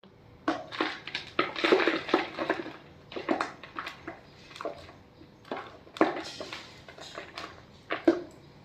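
Gym chalk crushed by hand into crumbles: crisp, crumbly crunches, a dense run over the first few seconds, then scattered crunches with short pauses between.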